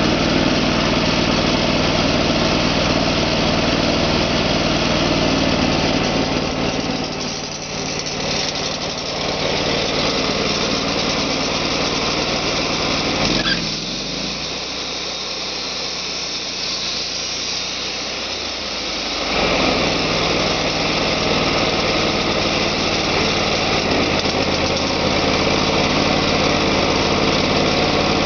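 Portable sawmill's engine running under load while it saws slabs off a walnut log. About halfway through, after a click, it drops to a quieter, thinner sound for several seconds, then picks back up to full running.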